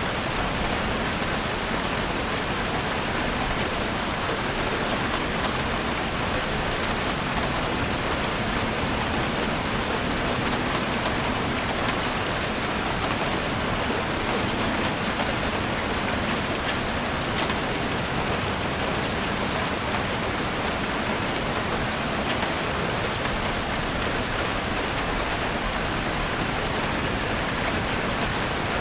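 Heavy rain falling steadily on a chalet roof, a dense even hiss with countless small drop ticks.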